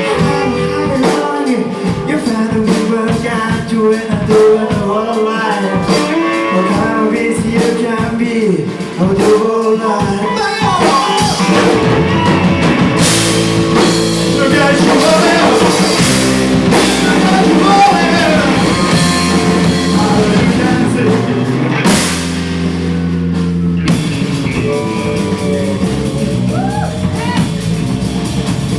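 A rock band playing live, with drum kit and electric guitar, and a voice singing.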